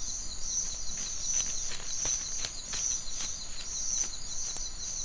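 Insect ambience: a steady, high-pitched chirring in a fast, even pulse, with scattered sharp clicks.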